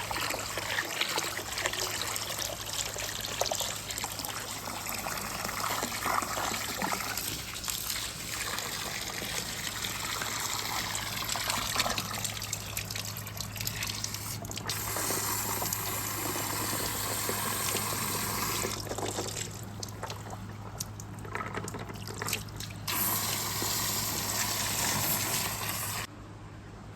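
Water running and trickling down a marble run track, with some gushing. The sound changes abruptly several times as it jumps between sections of the run.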